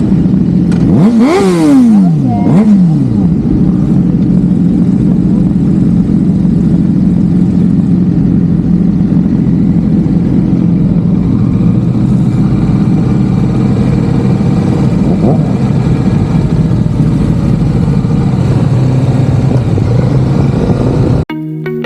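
Motorcycle engine running steadily, with two quick revs about a second or two in that rise and fall in pitch. The music comes in right at the end.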